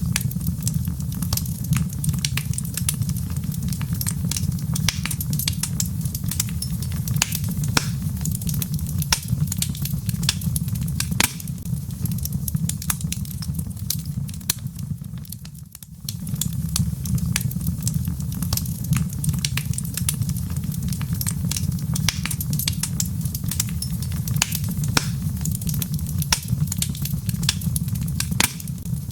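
Wood fire burning in a fireplace: dense, irregular crackles and pops of burning logs over a steady low rumble. The sound dips briefly about halfway through.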